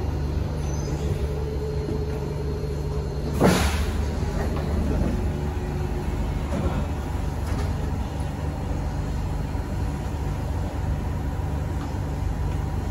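Inside an SMRT C151A train car stopped at a station platform: a steady low hum from the train, broken about three and a half seconds in by a short, loud hiss of air, as the doors slide open.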